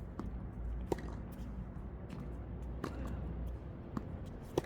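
Tennis balls being struck with rackets and bouncing on the court during a drill: sharp single pops every second or two, over a steady low background rumble.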